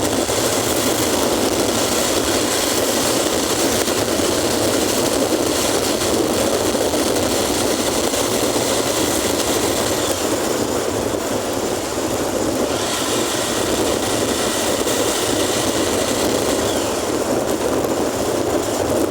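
A vehicle on the move in the rain: a steady, loud rush of engine, wet-road and wind noise, easing slightly about twelve seconds in.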